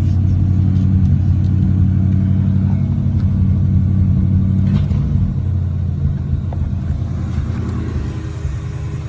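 1987 Buick Regal's factory Oldsmobile 307 V8 running steadily with an even rumble. It gets somewhat quieter about five seconds in.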